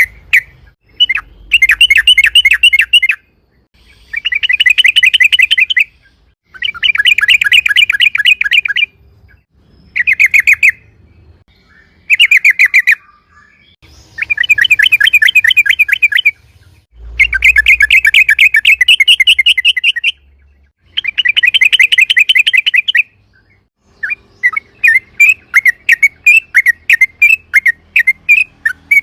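Yellow-vented bulbul (trucukan) singing loud, rapid chattering trills in bouts of one to two and a half seconds with short pauses between; in the last few seconds it switches to a quick run of separate chirps, about two a second.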